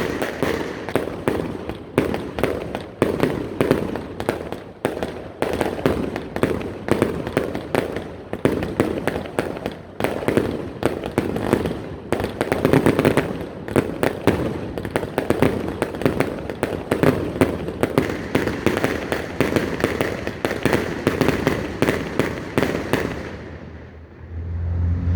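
A Hoo Lee Fook 100-shot firework cake firing in a rapid, continuous volley of bangs, several a second, which stops shortly before the end.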